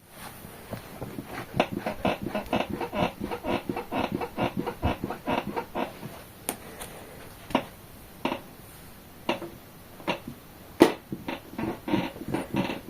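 Ardor Gaming Chaos Guard 500B gaming chair creaking and squeaking under movement: a quick run of creaks about four a second, then scattered single creaks with a sharp loudest crack about eleven seconds in, then quick creaks again. The squeak is the one the owner traces to a seat-mounting bolt that had worked half loose.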